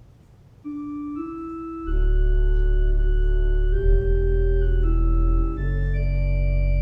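Organ music: a single held melody line enters under a second in, then full sustained chords with deep bass pedal notes join at about two seconds.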